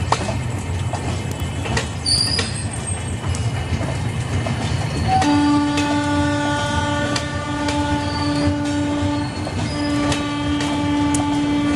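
Indian Railways passenger coaches rolling past as the train departs, with a steady wheel rumble and scattered clicks from the rails. About five seconds in, a long steady train horn starts and is held for the rest of the time, with one short break.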